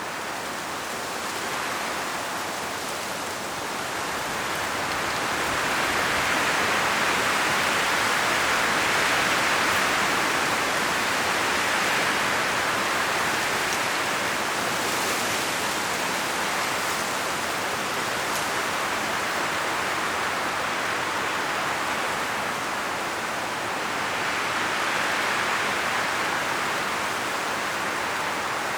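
High wind blowing through forest trees, rustling the autumn leaves. It comes in gusts, swelling about a quarter of the way in and again near the end.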